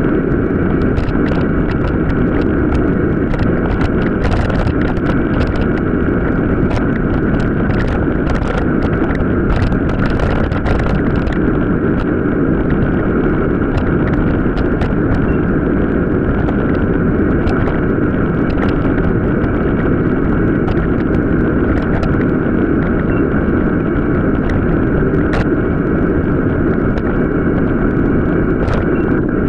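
Steady wind rush over the microphone, with rapid clattering and ticking from a mountain bike riding over rough off-road track.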